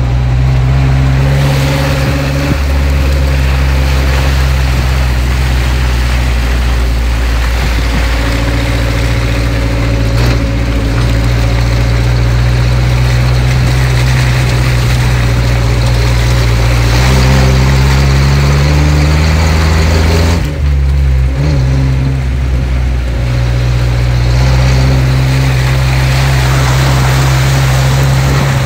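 Off-road vehicle's engine running under load in a low gear, heard from inside the cabin, over the hiss of tyres churning through mud and water. About two-thirds of the way through, the revs climb, then drop suddenly before settling back to a steady pull.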